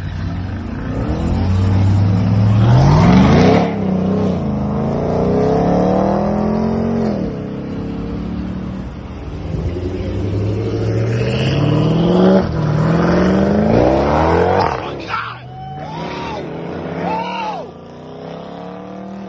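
A 6.2-litre V8 car engine revving hard and accelerating, its note climbing through several steep pulls with sharp drops between them.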